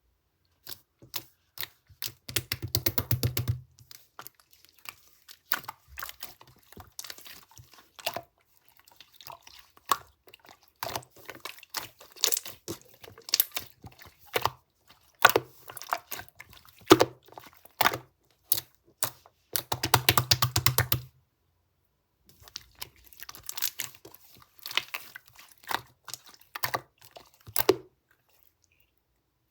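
Slime being squeezed and pressed by hand: a run of sticky clicks and small bubble pops, with two dense bursts of crackling, one about three seconds in and one about twenty seconds in.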